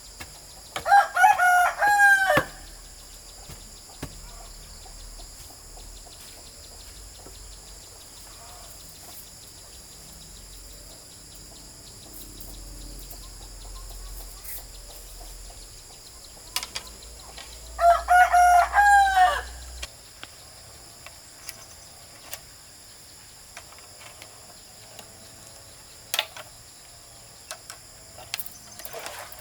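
A rooster crows twice, once about a second in and again some seventeen seconds later, each crow about a second and a half long. Under it a steady, high-pitched chorus of insects keeps going.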